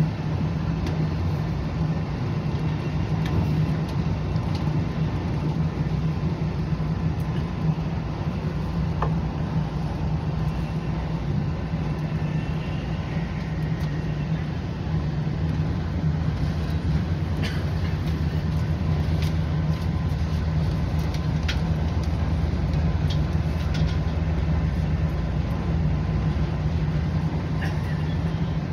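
Passenger train running at speed, heard from inside the carriage: a steady low rumble of wheels on rails, with a faint steady tone and a few light clicks.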